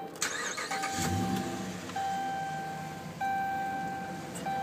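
A 2011 Dodge Ram 1500 Sport's 5.7-litre Hemi V8 starts, catches and settles into a steady idle. Over it a dashboard warning chime sounds one steady tone, repeating about every second.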